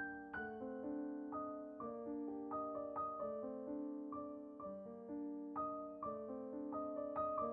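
Gentle solo piano music: soft, slow notes struck about twice a second and left to ring.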